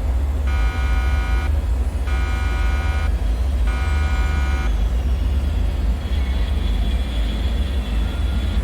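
A buzzing alarm tone pulsing three times, each about a second long with short gaps, then stopping, over a steady deep rumbling drone.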